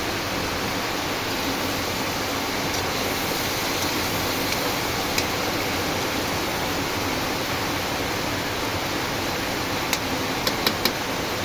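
Steady rain: an even, continuous hiss of falling water. There is one sharp tick about five seconds in and a short run of four ticks near the end.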